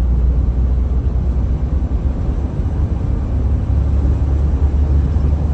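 Steady low rumble of road vehicles, with no distinct events.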